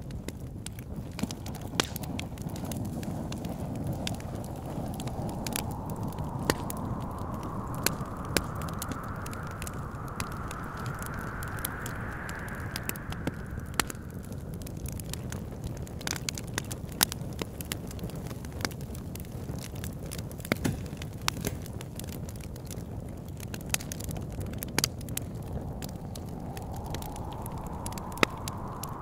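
Wood fire crackling with frequent sharp pops over a steady low rumble, while wind whistles in long gusts that rise slowly in pitch: one builds over about ten seconds and fades, and another begins near the end.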